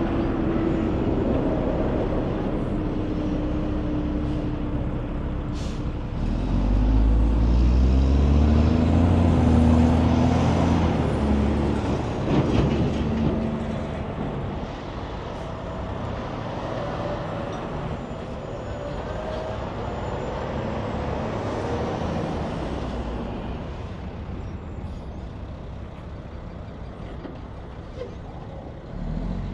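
Highway traffic with a big diesel truck passing close: its low engine note swells in about six seconds in, is loudest for several seconds, then fades into steady tyre and road noise.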